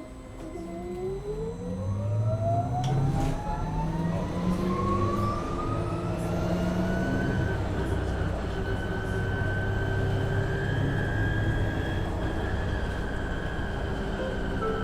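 MAN Lion's City Hybrid city bus heard from inside while it accelerates. Its electric drive whine rises steadily in pitch for about eight seconds and then holds level at cruising speed, over the low drone of the engine.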